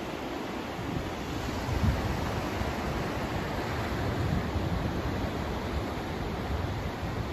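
Continuous white-noise track: an even rushing hiss with uneven low rumbling swells underneath, and a brief louder swell about two seconds in.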